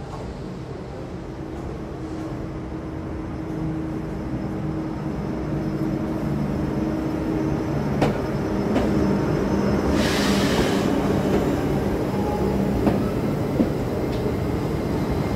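Electric locomotive hauling a regional passenger train into the station, its motor hum and wheel noise growing louder as it draws near and passes. A few sharp knocks come from the wheels, and a short hiss comes about ten seconds in.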